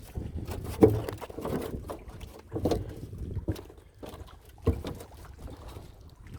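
Small boat on a fish pond: water sloshing against the hull, with irregular knocks and splashes, the sharpest about a second in, near three seconds and near five seconds.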